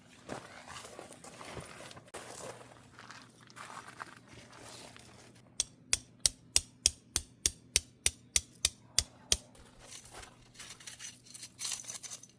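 Rustling and handling noises, broken in the middle by a run of about sixteen sharp, evenly spaced clicks, about four a second, lasting nearly four seconds.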